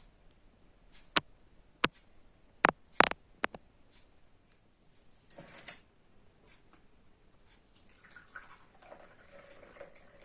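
Several sharp clicks and taps of small hard objects being handled, about six in the first four seconds, followed by softer rustling.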